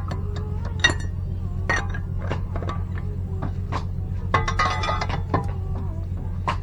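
Metal tools and parts clinking and tapping at irregular intervals, some knocks leaving a short metallic ring, over a steady low hum.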